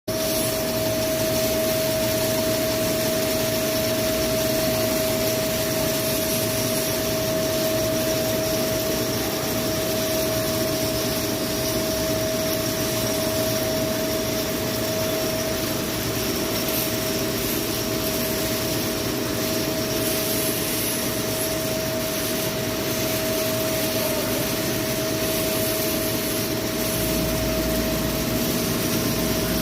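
CNC lathe running a facing cut: steady machining noise with one constant whining tone throughout, and a low hum joining near the end.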